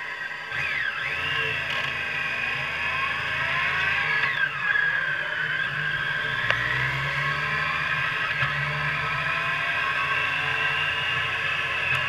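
Triumph sports motorcycle's engine heard from on board, its note rising and falling as it pulls away at low speed through the gears, then settling into a steadier, slowly rising note. A single sharp tick about six and a half seconds in.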